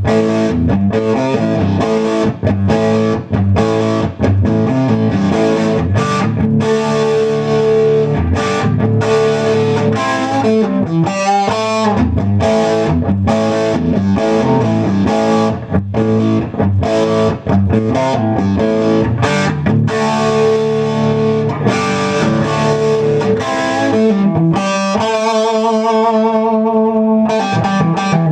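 1975 Gibson Les Paul Custom electric guitar played through an amp with a distorted, dirty tone: rock riffs, chords and lead lines. Near the end there are held notes with vibrato.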